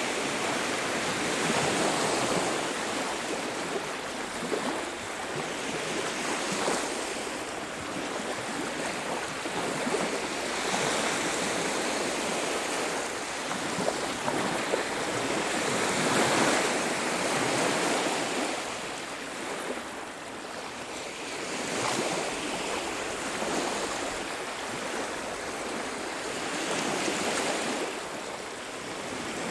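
Surf washing on a beach: a continuous rush of breaking waves that swells and ebbs every few seconds.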